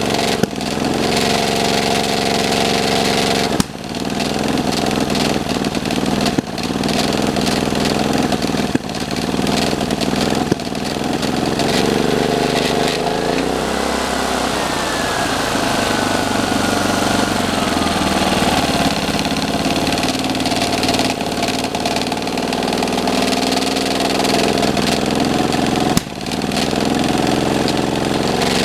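Camper van's engine running, brought in for an abnormal engine noise, with its pitch shifting up and down around the middle and several brief sharp breaks in the sound.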